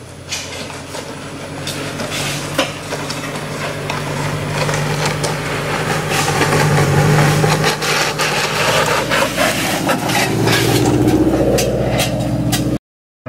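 Lowered Subaru BRZ's flat-four engine running as the car rolls slowly toward the listener, growing louder as it approaches, with scattered sharp clicks and crackles over it. The engine note climbs about ten seconds in, and the sound cuts off abruptly shortly before the end.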